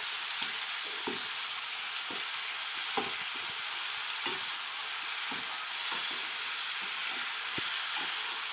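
Chicken pieces and spice masala sizzling in oil in a nonstick frying pan while a spatula stirs them, scraping against the pan every second or so. The masala is being fried down until the oil separates from it.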